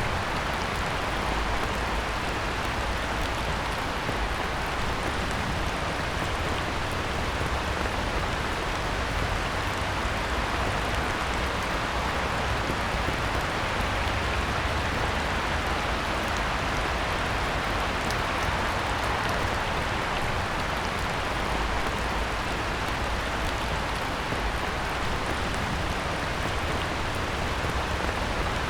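Heavy rain falling steadily onto a pond, an even hiss of countless drops with fine scattered ticks.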